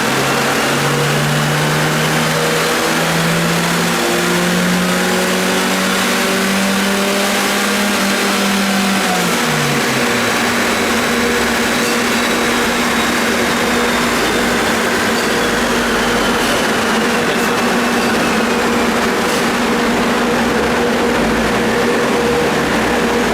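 Car engine on a chassis dynamometer pulling up through the revs under load for about nine seconds, then dropping off sharply as the throttle is released, over a steady loud drone that continues throughout.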